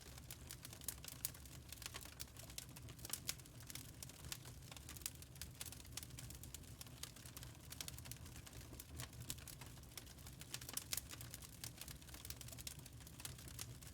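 Wood fire crackling and popping in a fireplace: irregular small snaps over a low, steady rumble.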